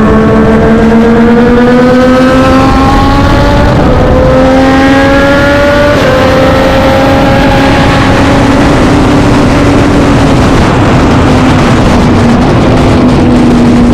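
A vintage racing motorcycle's engine running hard at race speed under a heavy rushing noise. Its pitch climbs, breaks twice, about 3 to 4 s in and again about 6 s in, as it shifts gear, then slowly falls off toward the end as the rider eases off.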